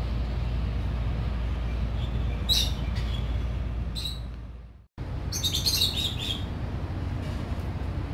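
Small birds chirping in short, scattered bursts, with a busier run of chirps about five to six seconds in, over a steady low background rumble. The sound cuts out for a moment just before five seconds in.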